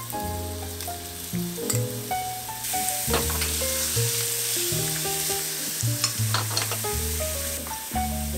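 Food sizzling in hot oil in a pan, with sharp clicks of a utensil against the pan, over background music with a light melody and bass. The sizzle grows louder about two and a half seconds in and eases off near the end.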